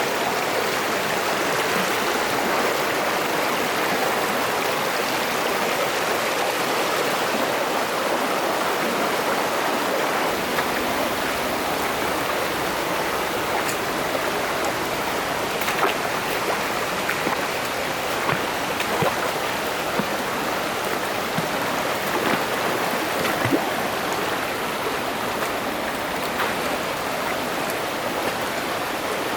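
Mountain stream rushing steadily over rocks. From about halfway, a few short clicks cut through it.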